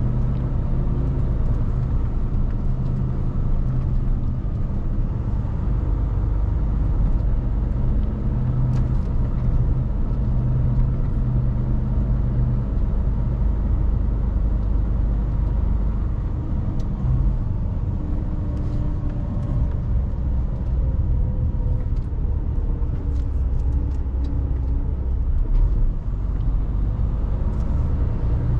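Mercedes Actros truck's diesel engine running as it drives: a steady low hum that drifts up and down in pitch in the second half, with a few faint clicks near the end.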